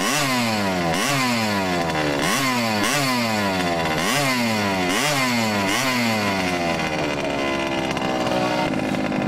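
Small racing motorcycle engines, high-revving minimoto or pit bike engines, buzzing as they race. The pitch leaps up and slides down again about nine times in quick succession, then falls away in one long slide.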